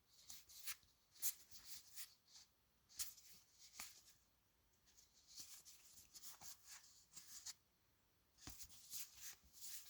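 Board game cards being handled and flipped through: soft papery rustles and light clicks in three short spells with pauses between.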